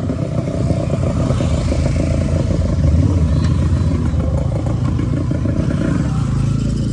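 Motorcycle engine running under way, with a steady low rumble and the rush of wind noise over it.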